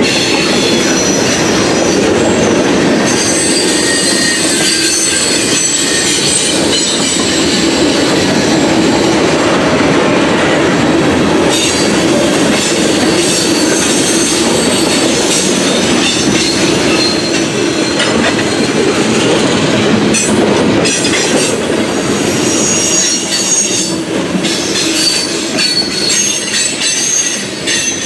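Freight cars rolling past at close range, steel wheels rumbling and clacking on the rails, with high-pitched wheel squeal that comes and goes.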